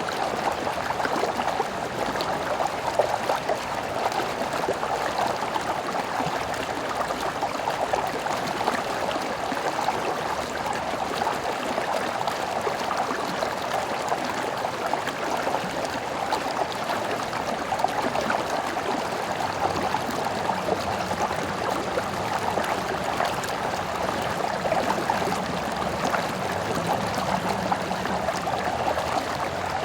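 A small stream running over stones, with a steady rushing, gurgling flow.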